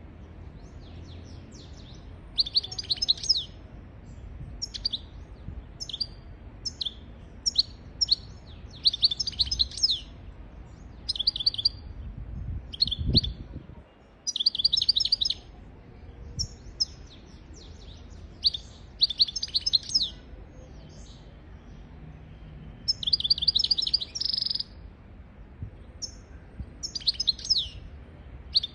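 European goldfinch singing: short bursts of high, fast twittering and trills repeated with brief pauses between phrases, including a held buzzy note near the end. A dull low thump sounds about halfway through.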